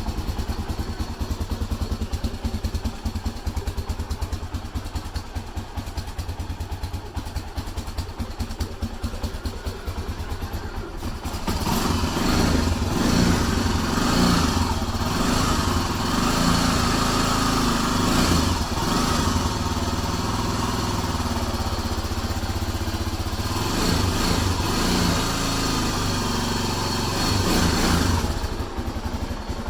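Cold Honda Sportrax ATV single-cylinder engine idling with a steady low pulse. About eleven seconds in it is revved up and held at higher, wavering speed for some fifteen seconds, then drops back to idle near the end.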